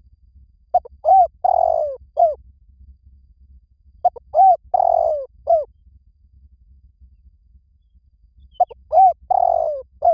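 Spotted dove cooing: three repeated phrases of four notes each, with the third note the longest, coming about four seconds apart.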